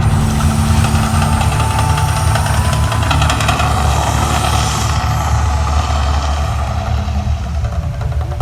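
Deep, steady rumble with a hiss over it, the rumbling effects of the Las Vegas Strip volcano eruption show.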